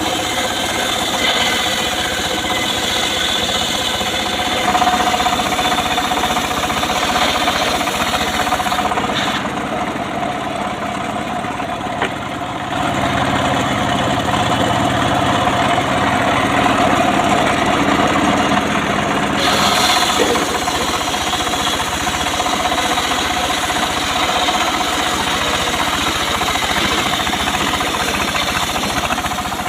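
Engine-driven homemade circular saw rig running steadily, the engine knocking as it drives the blade through mahogany. The sound turns duller for about ten seconds in the middle.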